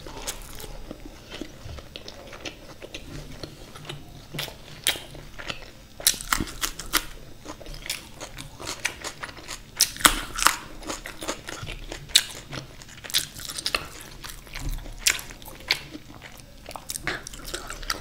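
A person chewing and biting food close to the microphone: irregular crisp crunches and wet mouth clicks.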